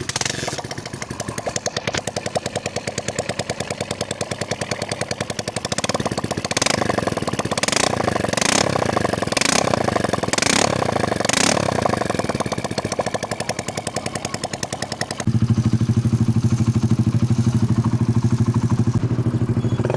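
Motorcycle engine running with rapid, even firing pulses and a clattery mechanical note. Midway comes a run of about six short sharp hits roughly a second apart. About fifteen seconds in, the sound switches abruptly to a louder, deeper running note.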